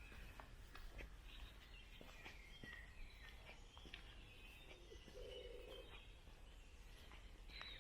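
Faint woodland birdsong: several small birds chirping and twittering in short, broken phrases, over a low outdoor hum.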